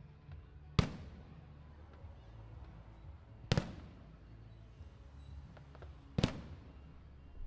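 Fireworks bursting: three sharp bangs about two and a half seconds apart, each trailing off in a short echo.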